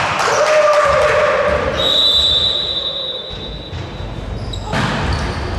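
A long, steady high whistle blast of about three seconds, starting about two seconds in, typical of a referee's whistle stopping play. Hall noise sounds throughout, with sharp knocks near the end.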